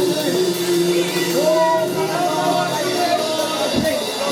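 Church worship music: voices singing long held, gliding notes over instrumental accompaniment.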